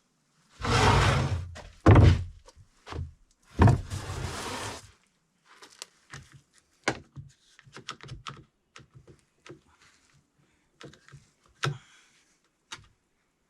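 Birch boards and tools being handled on a bench: a few rough sliding noises about a second long and heavy wooden thunks early on, then scattered lighter knocks and clicks.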